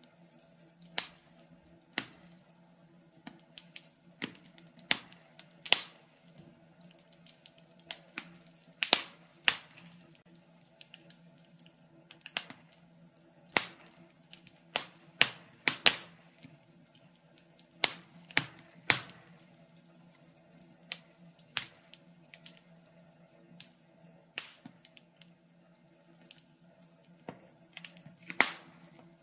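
Wood fire in a fireplace crackling: irregular sharp pops and snaps, a few of them much louder, over a faint steady low hum.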